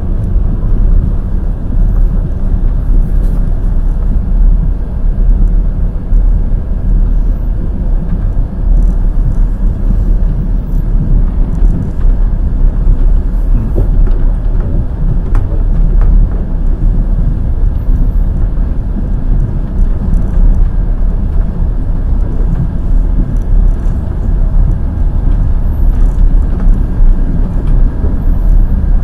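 Passenger train wheels running over the rails at speed: a steady, loud low rumble with a few faint sharp clicks.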